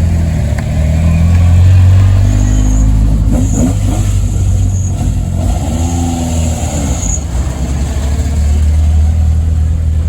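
Classic Mini rally car's four-cylinder A-series engine running, heard from inside the car, with its note rising and falling a few times in the middle.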